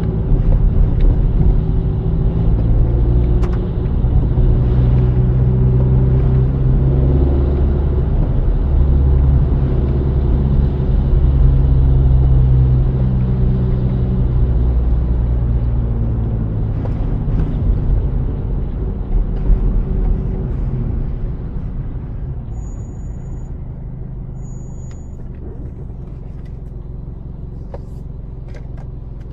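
Car driving on a wet city road, heard from inside: a steady low engine and road rumble that eases off about two-thirds of the way through as the car slows. Two short high beeps come shortly after.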